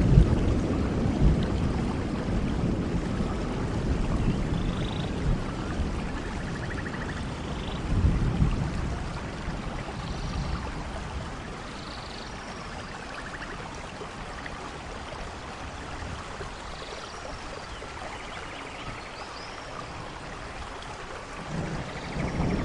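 Steady rain with rolling thunder: a low rumble fades over the first few seconds, swells again about eight seconds in, and builds once more near the end.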